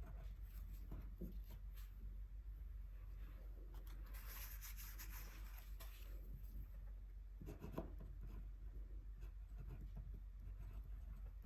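Light scratching strokes of a tool on paper, with one longer stroke about four seconds in and a few small knocks a little before eight seconds.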